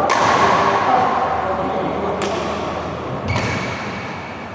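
Badminton rackets striking a shuttlecock a few times in a rally, each hit a sharp crack, over a steady noisy background with faint voices.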